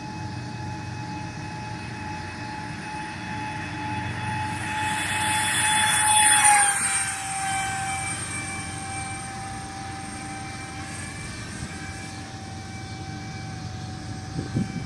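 Electric ducted fans of an RC Airbus A330 model airliner whining steadily as it flies past; the sound swells to its loudest about six seconds in, then drops in pitch and fades as it moves away. A brief low knock near the end.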